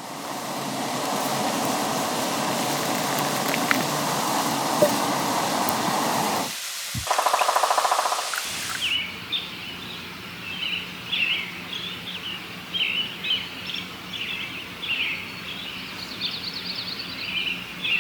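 A steady rushing noise for about six and a half seconds, then after a short break, small birds chirping in quick repeated calls over quiet bush background.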